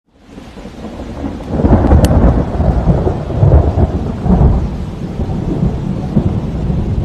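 Rushing floodwater: a loud, churning low rumble that rises out of silence over the first two seconds and then runs on unevenly.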